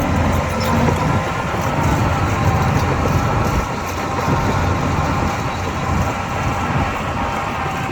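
Shantui DH17C2 crawler bulldozer running steadily, its diesel engine under load, with a faint whine and light clicking over the engine.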